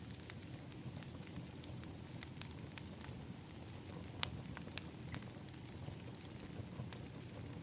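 Wood fire in an outdoor fire pit crackling: irregular sharp pops over a low, steady rumble, the loudest pop about four seconds in.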